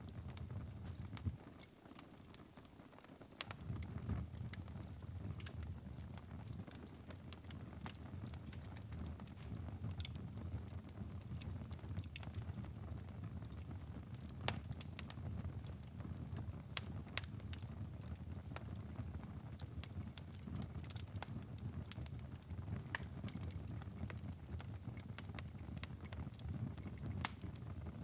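Wood fire in a fireplace crackling: irregular sharp pops and snaps over a low, steady rumble of the flames. The rumble dips briefly about two seconds in.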